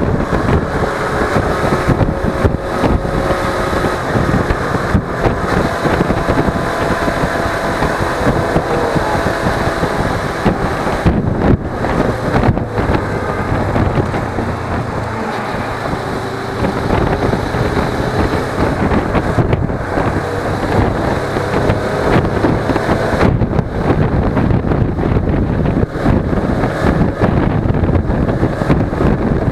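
Suzuki V-Strom 250's parallel-twin engine running under way, mixed with steady wind rush on the action camera's microphone. The engine's pitch shifts now and then, and wind noise dominates in the second half.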